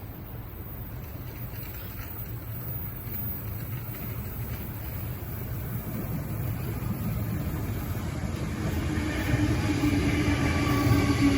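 Sydney Trains B-set electric suburban train approaching: a low rumble growing steadily louder, with a whine coming in about nine seconds in.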